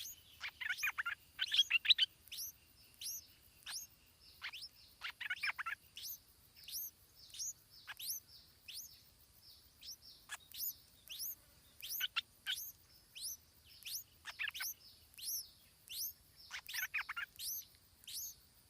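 Small bird chirping: a steady run of short, high, downward-slurred chirps about two a second, with quick bursts of several falling notes every few seconds, the loudest burst near the start.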